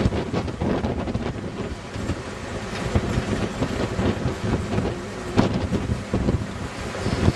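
Wind buffeting the microphone: an uneven low rumble with gusty swells and an occasional sharp knock, the loudest about five seconds in.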